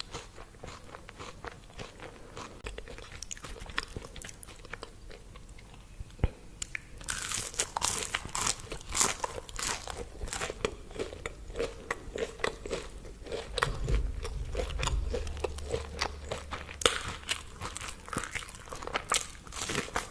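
A person biting and chewing crispy deep-fried food, with a stream of sharp crunches. The crunching is sparse and quieter for the first several seconds, then busier and louder from about seven seconds in, with a brief low rumble around the middle.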